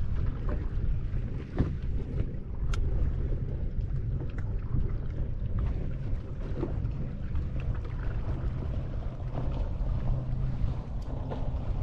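Steady low rumble of wind on the microphone aboard a fishing boat, with scattered light knocks and clicks.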